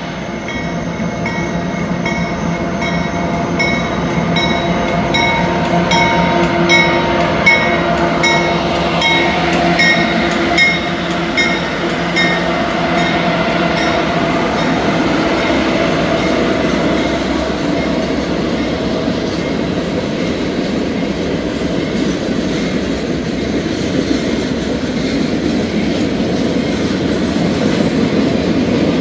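Norfolk Southern diesel locomotives passing close by with their engines droning. A bell rings about one and a half strikes a second, fading out about twelve seconds in. After that, freight cars roll past with steady wheel-on-rail noise and some clickety-clack.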